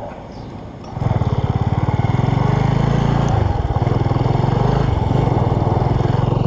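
Motorcycle engine pulling away about a second in, then running loud with a fast, low, even pulse. Its pitch dips briefly around the middle and then holds steady.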